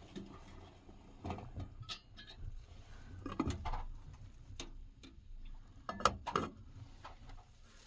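Scattered light knocks and clicks at irregular intervals, like objects being handled and set down, with the sharpest knocks a little past halfway.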